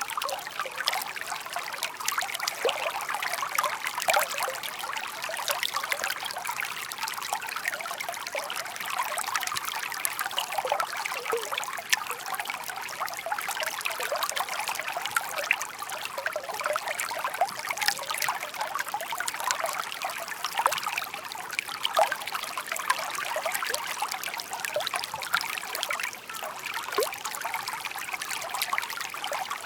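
Small shallow brook babbling steadily: a continuous light trickle dotted with many small splashes and gurgles, with no low rumble.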